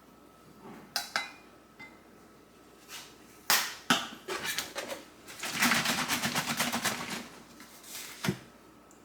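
Handling noises: a few sharp knocks, then a quick rattling run of clicks lasting about a second and a half, and one last knock near the end. These are typical of dishes, utensils or cupboards being handled in a kitchen.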